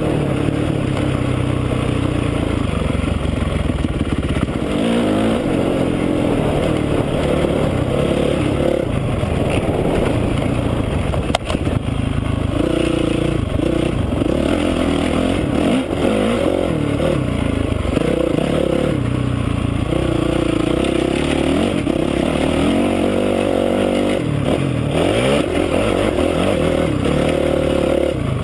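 Honda CRF450R's single-cylinder four-stroke engine being ridden hard, its pitch rising and falling again and again as the throttle is opened and shut.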